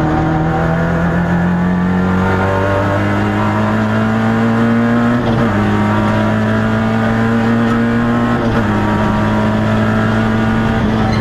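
Peugeot 106 XSi rally car's four-cylinder engine heard from inside the cabin, accelerating hard with its pitch climbing, then dropping at two upshifts about five and eight and a half seconds in.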